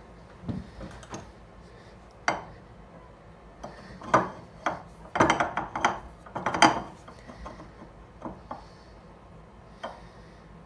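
Metal hand tools clinking and knocking on a workbench as they are picked up and set down: a few scattered taps, then a busier run of clinks in the middle.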